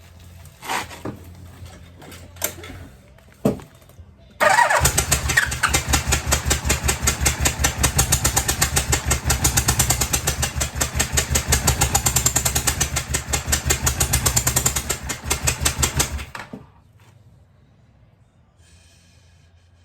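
1986 Yamaha Venture's V4 engine turned over on its electric starter for about twelve seconds without catching, a steady rhythmic chugging from each compression stroke, during a compression test of one cylinder. A few light clicks and knocks come before it.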